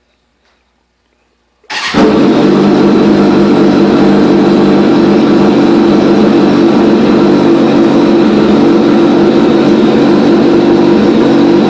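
A 2004 Kawasaki ZX-10R's inline-four engine starts about two seconds in, remote-started from a phone through a Bluetooth relay board, and then idles steadily and loudly.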